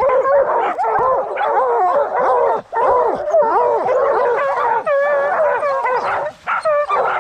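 A pack of bear hounds barking and bawling together, a constant overlapping chorus of short calls from several dogs, baying up at a treed bear.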